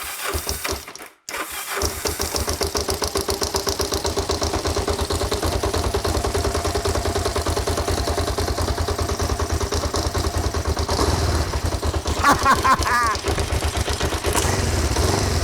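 Kawasaki GPZ500S parallel-twin engine running on its own after a short break about a second in, then steady and even, sounding a little bangy. It is among its first runs after standing three to four years.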